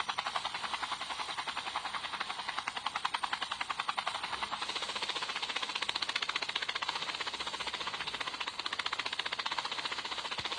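Helicopter rotor chopping, a fast, even run of pulses that goes on without a break and grows a little brighter about halfway through.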